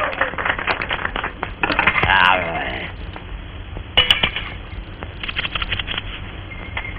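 Cartoon sound effects on an old, narrow-band soundtrack: quick runs of clicks and clinks like dishes rattling, with a brief warbling sound about two seconds in and a single sharp knock about four seconds in.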